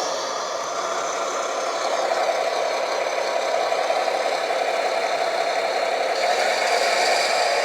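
Hydraulic RC model Fendt 1050 tractor running: a steady mechanical whir from its electric drive and hydraulic pump, rising and falling a little in pitch.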